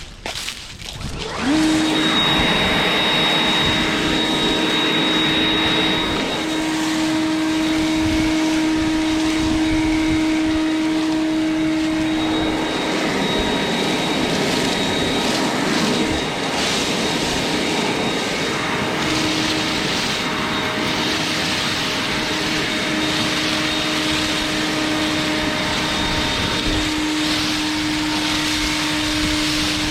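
Leaf blower switched on about a second and a half in, then running steadily with a constant whine over a rush of air.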